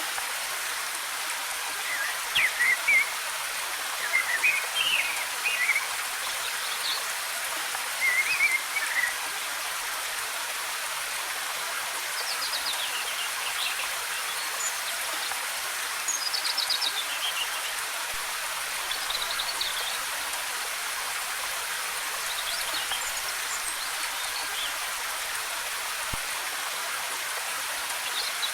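Waterfall rushing steadily, with small birds singing short chirping phrases every few seconds over it.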